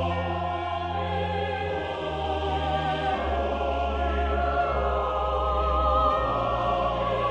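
Background music: slow, sustained choir-like voices with vibrato over a steady bass line.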